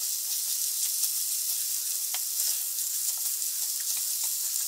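Sliced vegetables and pork strips sizzling in hot oil in a frying pan as a silicone spatula stirs them, with scattered light clicks and scrapes of the spatula against the pan.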